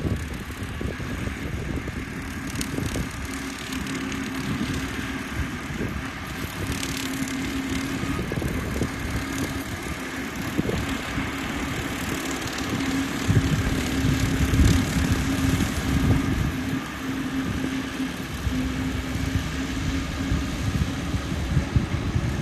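Swing-blade lawn mower's motor running steadily with a constant drone, getting louder for a few seconds about halfway through.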